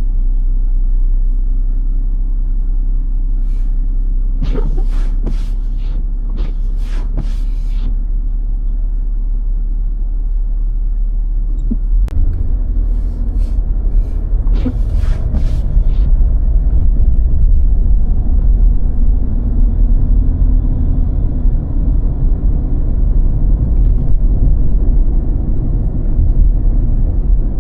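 Steady low rumble of a car driving on snowy roads, heard from inside the car, growing louder about twelve seconds in. Two clusters of short, sharp sounds stand out over it, one around five to eight seconds in and another around thirteen to sixteen seconds in.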